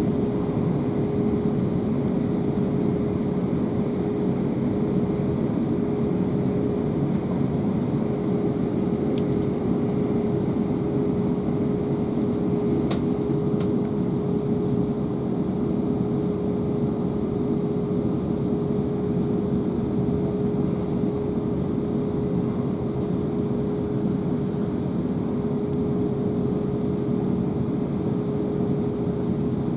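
Steady running noise inside a South Western Railway Class 444 electric multiple unit at speed, heard in Fox Hills Tunnel: a dense rumble with a steady hum held at one pitch throughout, and a couple of faint ticks.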